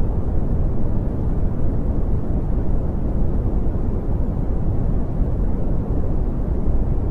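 Brown noise: a steady, deep rushing hiss, strongest in the bass and falling away toward the highs, with no change or events.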